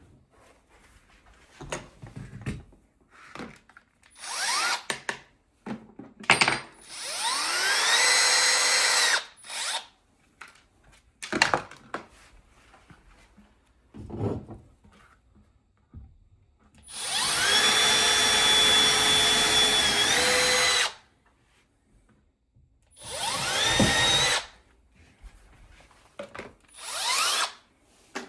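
Cordless power drill running in about five bursts. Each spins up with a rising whine, holds speed for one to four seconds and stops. Knocks and clicks fall between the bursts.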